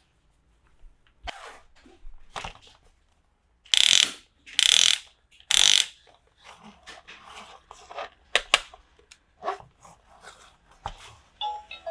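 Plastic toy pieces and packaging being handled and unpacked: scattered clicks and scrapes, with three louder rasping sounds of about half a second each a few seconds in.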